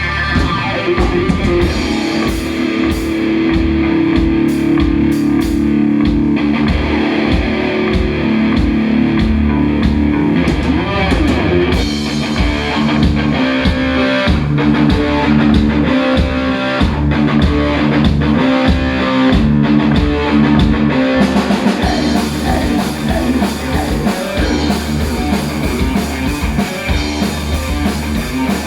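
Heavy metal band playing live: distorted electric guitars with bass and a drum kit. Held chords give way to a choppy, rhythmic riff about twelve seconds in.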